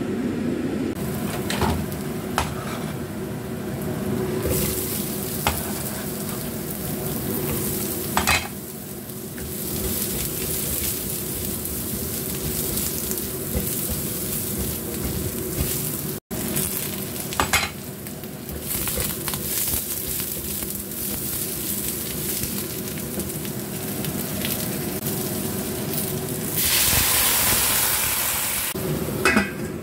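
Sliced cucumber sizzling as it stir-fries in a stainless steel wok, with the spatula now and then knocking and scraping against the pan. Near the end the sizzle grows louder as chicken stock is poured into the hot wok.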